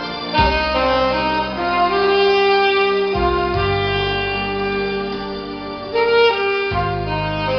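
Instrumental music: a saxophone playing a slow melody of long held notes over keyboard accompaniment.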